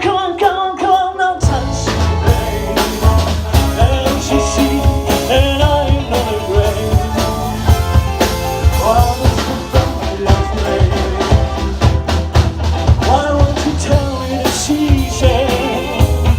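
Live rock band playing with a drum kit and bass; the low end and drums come in fully about a second and a half in, under a moving melodic line.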